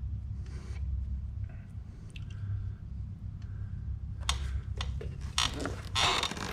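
Small metal hardware (lock washers and fasteners) being handled and fitted on studs, a run of sharp clicks and clinks starting about four seconds in, over a steady low hum.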